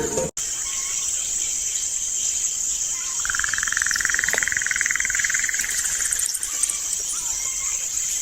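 Steady high-pitched insect chorus, with a fast trill from a bird or insect lasting about three seconds in the middle.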